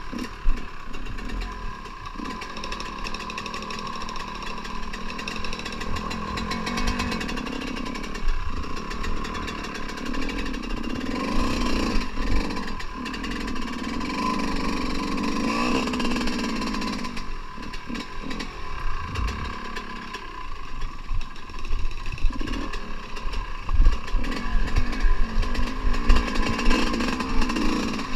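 Dirt bike engine running with the throttle opening and closing, its pitch and level rising and falling, with sharp knocks in the last few seconds.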